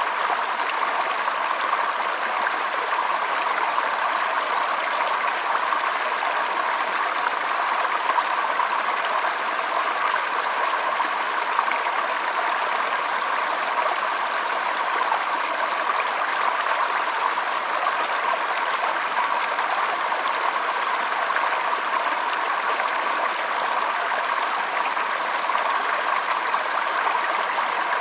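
Shallow stream flowing and trickling over stones: a steady, even rush of water.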